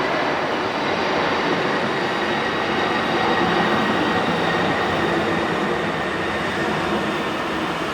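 Skytrain automated people-mover train running, a steady rolling rumble with a faint, steady whine on top.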